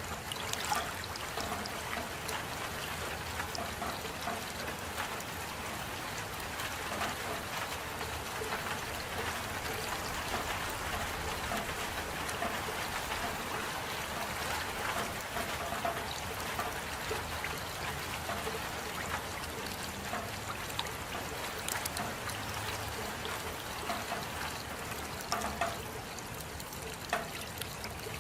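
Steady rain falling, a continuous even rush of water with many small drops ticking throughout.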